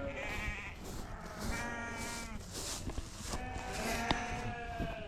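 Several sheep bleating in overlapping calls, with higher and lower voices, one after another. The flock is calling in expectation of grain at feeding time.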